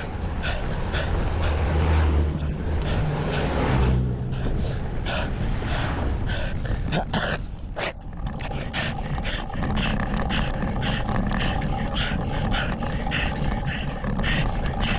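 A cyclist breathing hard and fast, panting at about two to three breaths a second while climbing a steep road, over a steady low rumble of wind and road noise on the helmet camera.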